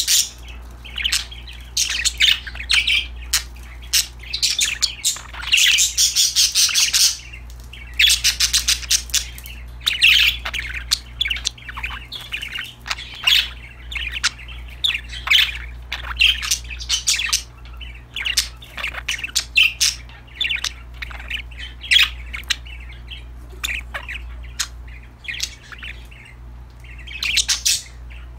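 Pet budgerigars chirping and chattering in quick, busy bursts, thickest in the first few seconds, with a steady low hum underneath.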